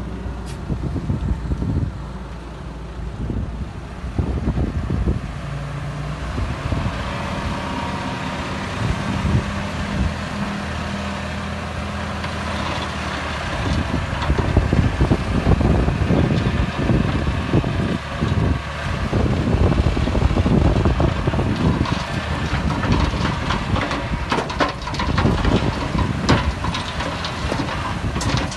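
Heavy diesel earthmoving machinery running steadily, joined about halfway through by dense crunching and clattering of rock being moved.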